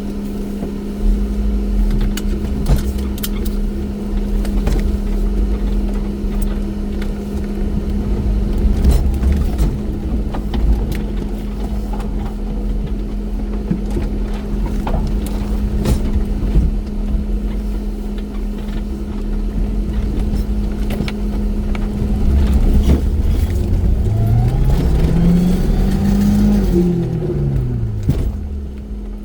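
Off-road vehicle engine running under load in snow, with scattered knocks and clicks. Near the end it revs up and then drops back.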